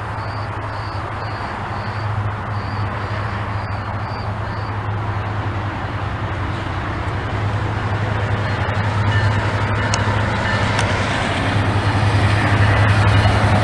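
Diesel freight locomotive approaching on the line: a steady low engine drone under a broad rumbling roar, growing gradually louder.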